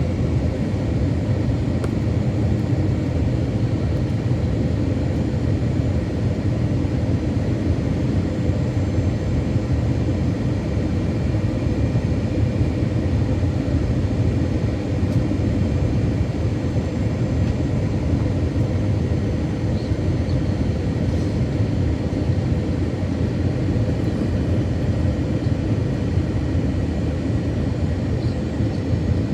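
Steady cabin rumble of an Airbus A321-200 jet airliner's engines and airflow on approach to landing, with a faint steady whine over the low roar.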